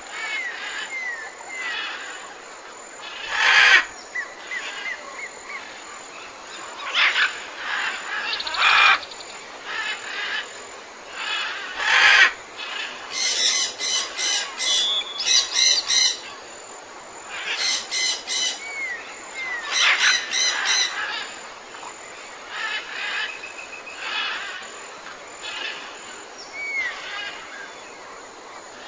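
Songbirds chirping and calling, with short hooked notes throughout and two loud runs of rapid, repeated chirps about halfway through.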